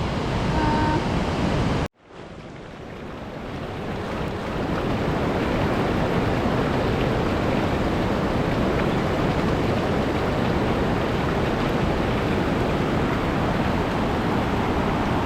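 Fast-flowing water rushing steadily, a strong current. It cuts out briefly about two seconds in, then fades back up and holds level.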